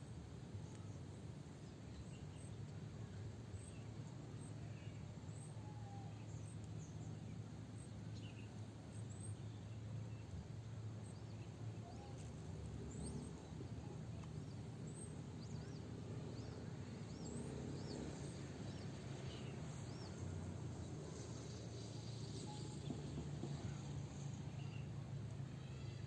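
Scattered short chirps and whistles of small birds, coming every second or so, over a steady low background noise.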